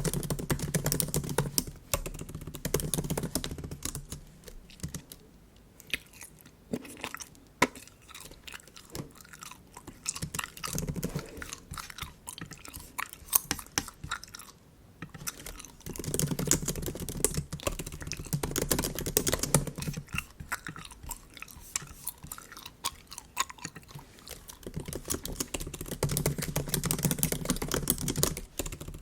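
Bubble gum chewed close to the microphone, mixed with clicking on a MacBook keyboard. The sounds come in louder stretches every several seconds.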